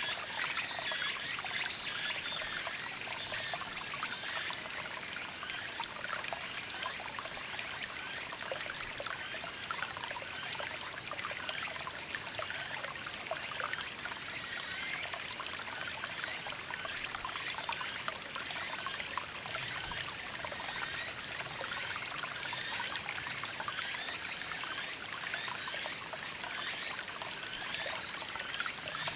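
Small mountain stream babbling and trickling over rocks, a steady flow of water full of small splashes and gurgles.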